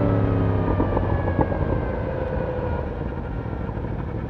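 Yamaha YZF-R1 inline-four engine coasting off the throttle, its note falling slowly and growing quieter as the bike slows down.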